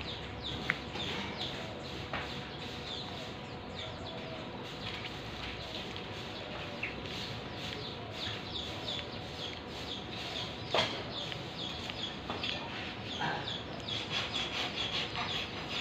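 Birds calling and chirping over and over in short high notes, with one sharp knock about two-thirds of the way through.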